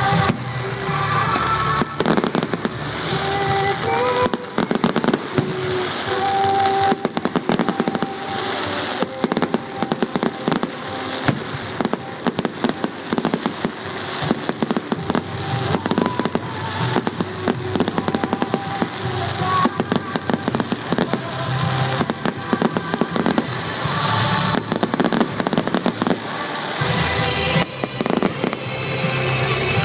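A fireworks display: rapid bangs and crackling from bursting shells, going on throughout, with music playing underneath.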